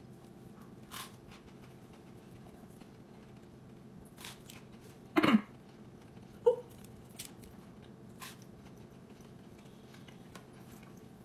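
A grilled cheese sandwich with toasted bread being chewed: soft scattered crunches and sharp little clicks over a faint steady hum. About five seconds in comes one brief louder sound whose pitch falls, the loudest moment, and a short higher blip follows a second later.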